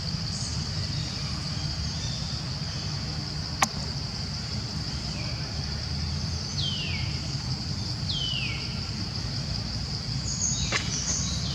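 Outdoor ambience: a steady high-pitched drone over a low rumble, a single sharp click about three and a half seconds in, and two short calls falling in pitch, a second and a half apart.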